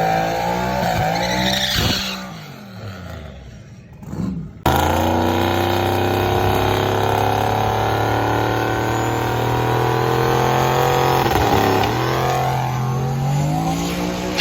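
Drag-race car's engine, likely the LS-swapped 3000GT's 5.3-litre V8, running hard down the track. Its pitch rises and falls, then cuts suddenly about four and a half seconds in to a loud, steady engine note that dips and climbs again near the end.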